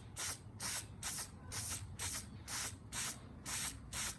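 Aerosol can of Nightshades lens-tint spray paint being fired in short, quick bursts, about two a second, laying on light test coats.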